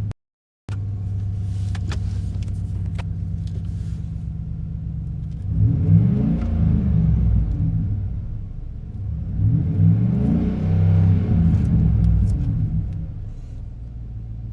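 A 2019 Chevrolet Silverado's 5.3-litre V8 exhaust, run through a straight-through Magnaflow muffler with dual split rear tailpipes, idling steadily and then revved up and let fall back twice, about five and nine seconds in, before settling to idle.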